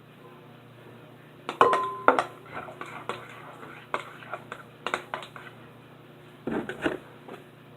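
A spoon clinking and scraping against a bowl while slime ingredients are stirred. It comes in irregular clusters of clinks, starting about a second and a half in, again around four to five seconds and near the end, one clink ringing briefly.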